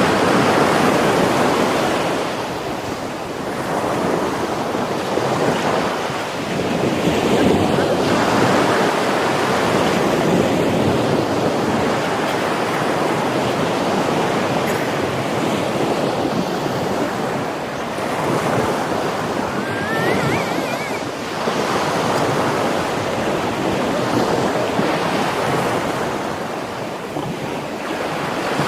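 Heavy sea surf breaking on the shore: a continuous rushing that swells and ebbs every few seconds as waves come in, with wind buffeting the microphone.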